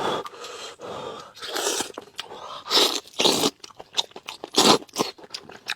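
A person eating close to the microphone: chewing and biting into food, with a string of short mouth clicks and several louder bursts about two, three and nearly five seconds in.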